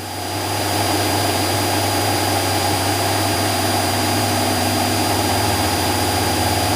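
Cessna 172SP's four-cylinder Lycoming engine and propeller at climb power, a steady drone heard in the cabin. It swells over the first second, then holds level.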